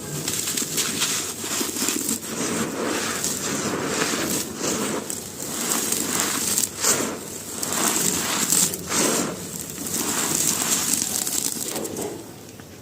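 Dry, crumbly charcoal-like pieces being crushed and crumbled: a dense, continuous run of crunching and crackling that drops off shortly before the end.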